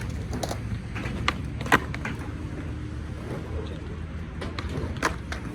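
Skateboard wheels rolling on concrete with a steady rumble, broken by sharp clacks of the board and trucks hitting the ground; the loudest clack comes about a second and a half in.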